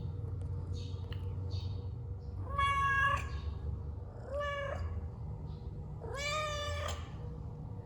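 A domestic cat meowing three times, each call rising at its start, the last the longest. A steady low rumble runs underneath.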